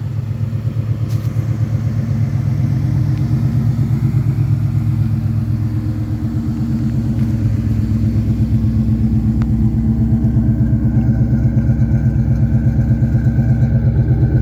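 Ford Coyote 5.0 L DOHC V8, swapped into a Fox-body Mustang, idling steadily through a 3-inch exhaust with an even, mild exhaust pulse. It grows somewhat louder and more pulsing in the second half.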